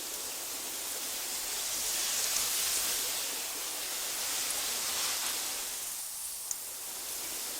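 Breeze rustling through tall meadow grass: a steady hiss that swells and eases, with a faint tick near the end.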